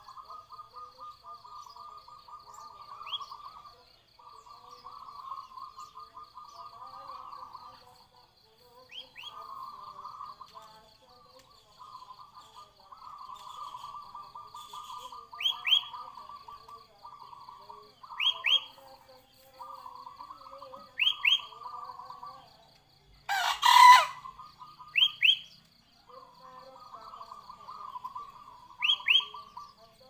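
Caged birds calling: repeated phrases of a rapid trill, each a second or two long, with sharp paired chirps that sweep downward every few seconds and a faint steady high buzz behind them. One loud, short call stands out about three-quarters of the way through.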